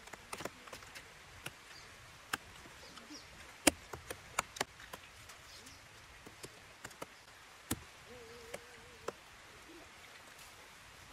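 Eating sounds: crunchy chewing of green papaya salad wrapped in lettuce, with irregular sharp clicks, the loudest about three and a half seconds in.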